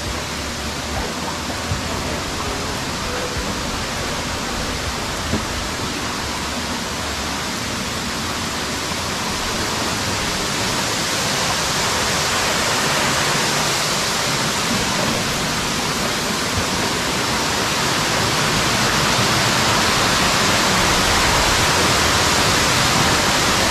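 Steady rushing of falling water from a waterfall, growing louder from about halfway through.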